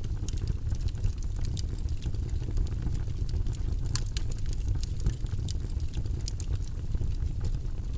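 Wood fire burning in a fireplace: a steady low rumble under frequent sharp crackles and pops, one of the louder pops about four seconds in.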